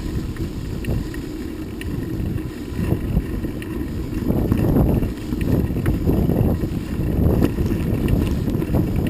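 Wind buffeting the microphone of a moving motorbike: a loud, uneven rumble.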